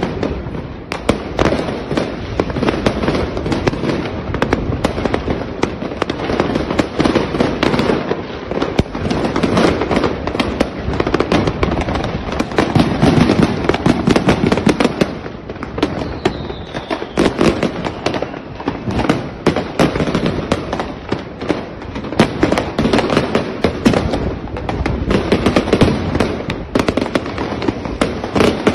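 Many fireworks going off at once: a continuous barrage of overlapping bangs and crackling, with no pauses.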